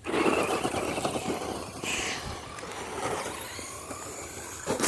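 Radio-controlled truck driving close by: its motor and tyres start up suddenly, then fade over the next few seconds.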